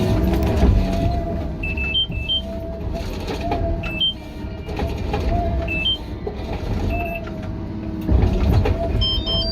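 Heavy machinery running under load: a steady low engine rumble with a wavering drone, as a stump grinder or excavator works.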